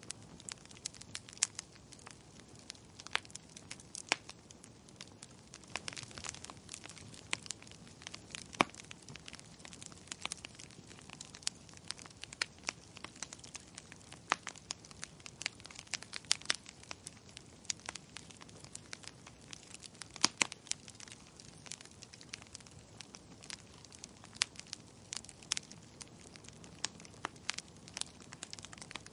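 Wood fire burning in a fireplace: a soft steady hiss with irregular crackles and sharp pops, a few of them loud.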